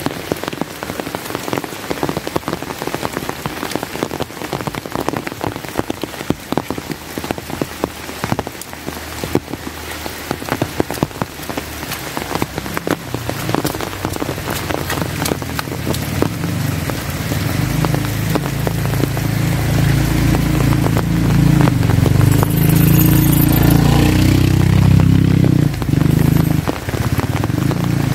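Steady rain pattering, with many sharp individual drop hits. From about halfway through, a low rumble builds and is loudest near the end before easing off.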